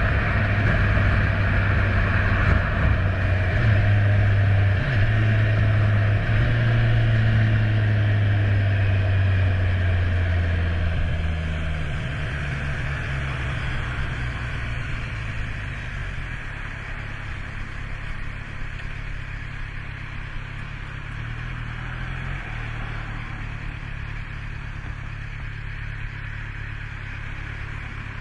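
Kawasaki Z1000 inline-four engine running at raised revs, then dropping back to a lower, quieter idle from about ten seconds in.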